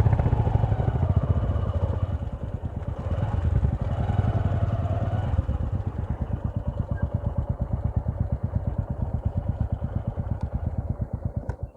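Single-cylinder motorcycle engine running with an even, rapid pulsing beat. It is louder at first, eases off about halfway through, and cuts off suddenly at the very end.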